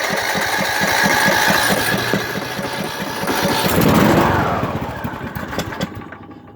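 Craftsman YTS3000 riding mower engine being cranked by its starter with a steady beat of about six pulses a second, then catching and running up briefly, loudest about four seconds in, before dying away near the end. A failed cold start of an engine that is hard to start cold.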